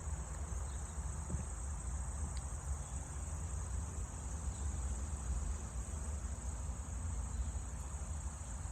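Steady, high-pitched chorus of insects over a low, steady rumble.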